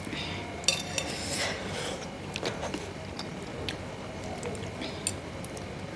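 Spoon clinking and scraping against a bowl of meatball soup, stirring and scooping, with sharp clinks about a second in and near the end.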